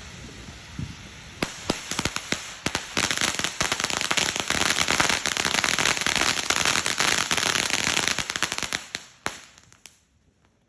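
A string of firecrackers going off: a few separate bangs about a second and a half in, then a dense run of rapid cracks for about six seconds that thins out and stops near the end.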